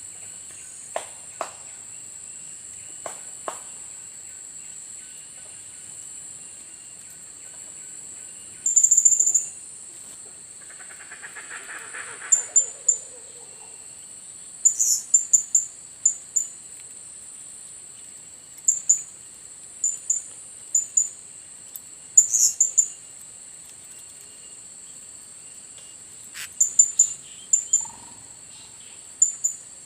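Blue-crowned hanging parrots (serindit) giving short, very high-pitched calls in quick clusters of two to five, repeated every few seconds over a steady high insect drone.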